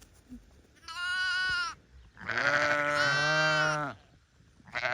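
Sheep bleating: a short high bleat about a second in, then a longer, louder and deeper bleat through the middle, and another high bleat starting near the end.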